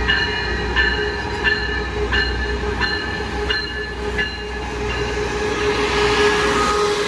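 Railroad crossing warning bell dinging about every 0.7 s as a Coaster commuter train's Siemens Charger diesel locomotive and bilevel cars roll past alongside the platform, the engine a steady hum underneath. Near the end, a rising hiss of wheels and brakes with a faint squeal covers the bell.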